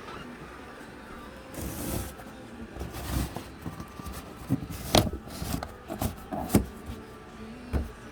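Irregular knocks, scrapes and rattles of a cockatoo clambering over household objects, with sharp knocks about five and six and a half seconds in and another near the end.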